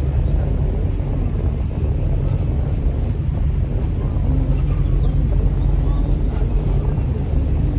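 River tour boat under way: its engine running with a steady low rumble, mixed with wind buffeting the microphone on the open upper deck.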